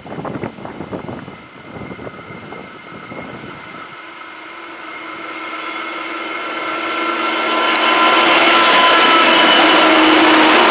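Gusts of wind on the microphone, then the diesel-electric locomotives of a narrow-gauge coal train approaching and drawing alongside. Their engine note and whine grow steadily louder from about four seconds in.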